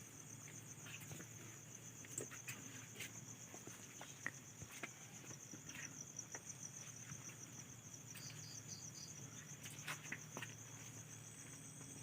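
Insects, crickets by their sound, trilling steadily and faintly in a high, finely pulsing tone, with scattered faint clicks and a brief run of four short notes about eight seconds in.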